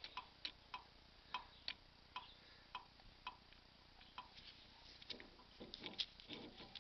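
Faint, sharp light clicks at uneven spacing, about two a second, with a few soft, duller knocks or rubs near the end.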